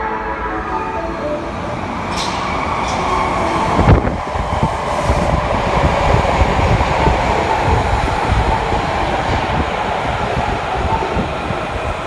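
Osaka Metro Midosuji Line subway train running into the station platform: a heavy rumble of wheels and motors that builds and then holds. There are brief hisses early on and a single sharp knock about four seconds in.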